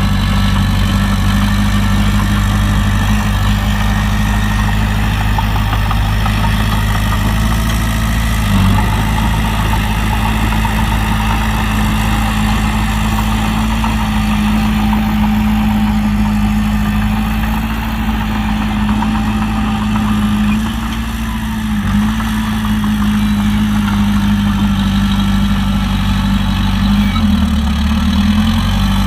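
Heavy diesel engine of an earthmoving machine running steadily. Its speed dips briefly a couple of times, then sags more deeply near the end, and each time recovers.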